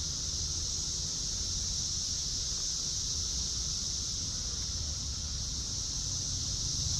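A steady, high-pitched insect chorus that never lets up, over a low rumble of wind on the microphone.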